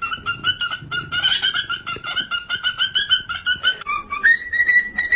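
A parrot calling in a fast run of short repeated notes, about five a second. About four seconds in it switches to one held whistled note.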